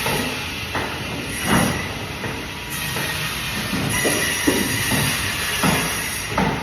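Band saw running and cutting through fish: a steady whine with the blade's hiss, and several short surges as the blade bites into the fish.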